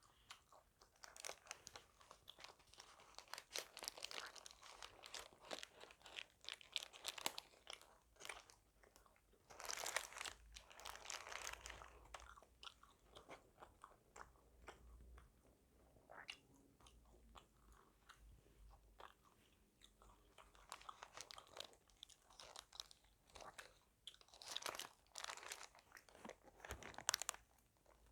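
Close-miked chewing and crunching of crispy KFC fried food: irregular crackly bites and munching, thinning out for a few seconds in the middle and picking up again toward the end.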